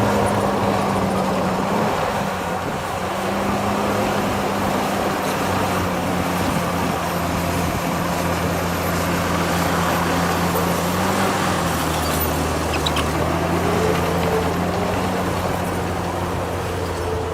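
Heavy diesel construction machinery engine running continuously, its note rising and falling slightly as the load changes.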